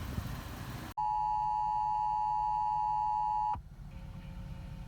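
Emergency Alert System attention signal: a steady two-tone electronic alert tone that starts abruptly about a second in and holds for about two and a half seconds before cutting off. It announces a National Weather Service storm warning. Before it there is a short stretch of outdoor background noise.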